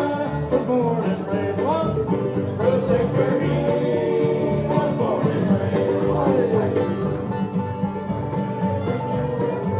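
Live bluegrass band playing, with banjo and guitar prominent over a steady beat.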